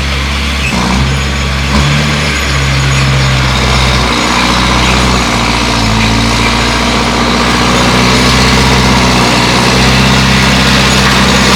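Bulldozer's diesel engine running steadily, its pitch shifting a few times.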